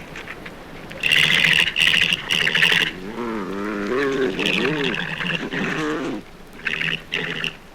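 Boar badger and his mate greeting each other at food: harsh, rapid squealing chatter starting about a second in and again near the end, with a wavering low purring call in between.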